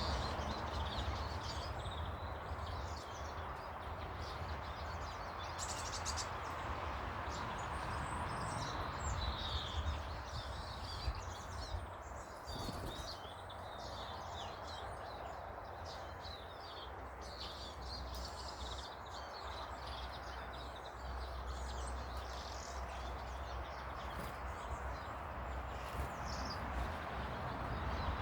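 Small garden birds chirping and twittering, many short calls all through, over a steady low rumble of background noise.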